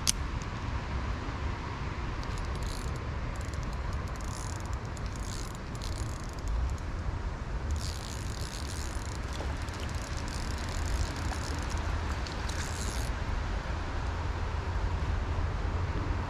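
Steady low outdoor rumble with an even hiss over it. Spells of high rustling and ticking come in roughly halfway through and stop a few seconds later.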